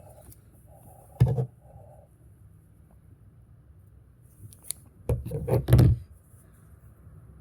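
Test fabric and thread being handled and pulled out from under a Singer sewing machine's presser foot: a sharp click about a second in, then a cluster of louder clicks and rustles around five to six seconds in. The machine's motor is not running.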